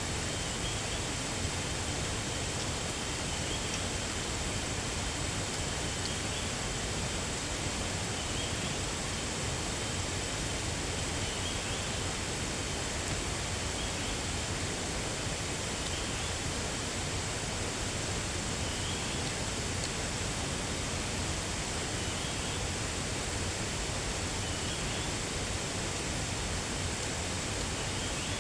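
Steady rushing outdoor noise with a faint, steady high tone, and a faint short chirp repeating about every two and a half seconds.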